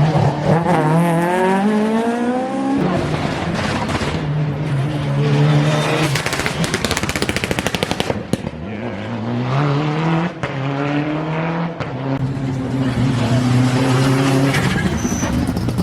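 Rally car engines being driven hard, the engine note climbing in pitch and dropping several times as the cars go up through the gears. A rapid run of sharp crackles and bangs comes about six seconds in.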